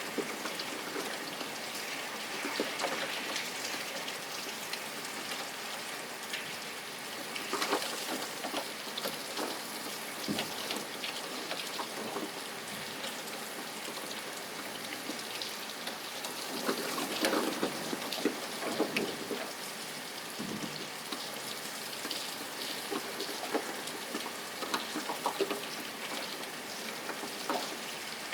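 Steady rain falling, with a constant hiss and scattered louder drops pattering on a surface.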